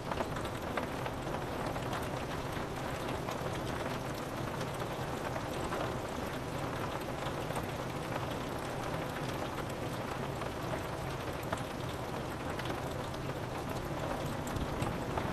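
Steady rain falling, with many small drop hits on a window pane.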